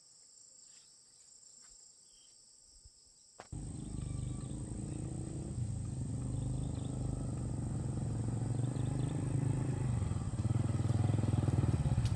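Motorcycle engine running steadily close by, starting abruptly about a third of the way in after a few quiet seconds and growing louder.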